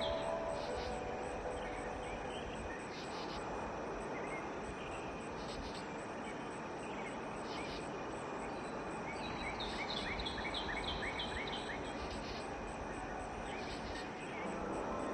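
Outdoor field recording: a steady, even rumble and hiss of background ambience, with a bird giving a quick run of repeated chirps, about five a second, some ten seconds in.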